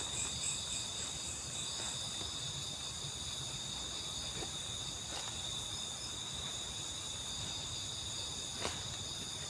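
Crickets and other night insects chirring steadily in several high-pitched layers, with a faint click near the end.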